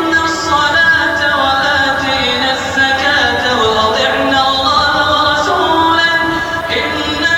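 Melodic Quran recitation: one voice draws out long, ornamented notes that slide up and down in pitch.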